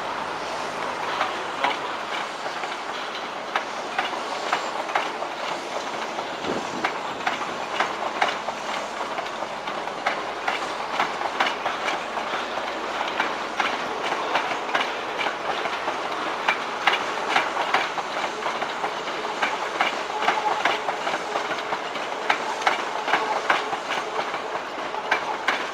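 Two coupled Class 365 electric multiple units rolling slowly past, their wheels clacking over the rail joints and points in a steady run of irregular clicks over a low rumble.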